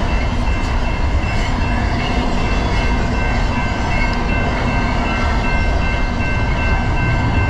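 Train passing close by: a steady, loud rumble of wheels on rail, with a few thin high tones held above it.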